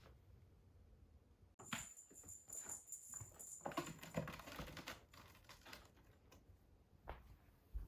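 Faint scattered light clicks and taps. They bunch between about two and four and a half seconds in, and there is one more near the end.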